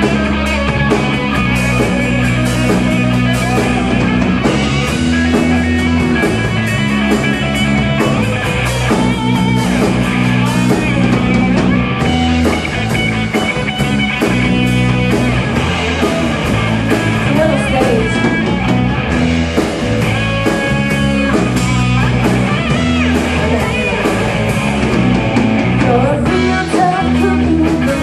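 Live rock band playing a song, with electric guitar, bass, drum kit and sung vocals.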